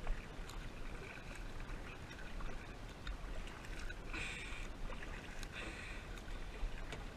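Kayak being paddled: water splashing and dripping off the paddle blade with each stroke, a few strokes over a steady hiss of moving water.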